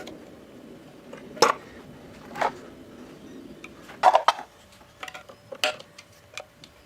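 Sharp metallic clinks and knocks, several in a row, the loudest about one and a half and four seconds in, from small parts and tools being handled during a repair of a knife-sharpening machine. A faint low hum underneath stops about four seconds in.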